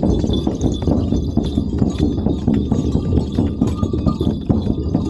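Shaman's frame drum beaten in a fast, steady rhythm of dull, low thuds.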